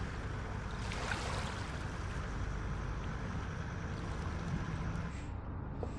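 Steady seaside ambience of wind and water at the Baltic shore, an even hiss over a low rumble. About five seconds in the hiss suddenly thins.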